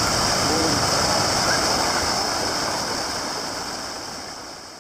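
Mountain stream water rushing steadily over rocks, fading out toward the end.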